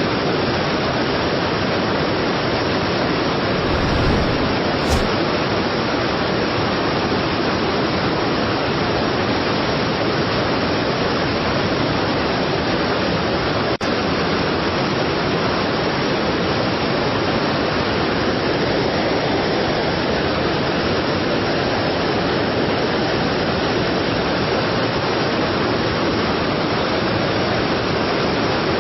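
Strong waterfall: a steady, heavy rush of falling water.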